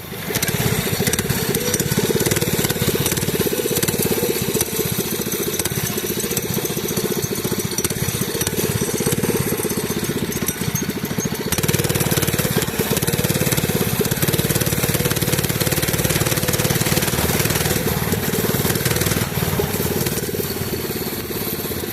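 Mini bike's small engine running steadily while riding, a little louder from about halfway through.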